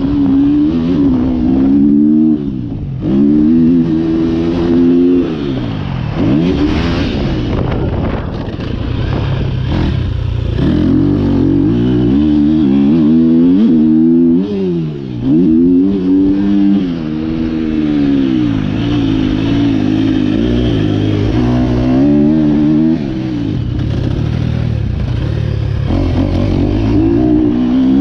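2023 KTM 250 SX-F's single-cylinder four-stroke engine, breathing through an Akrapovic Evolution Line exhaust, revving hard and rising and falling in pitch over and over as the throttle is opened and shut through gear changes, heard from the rider's chest.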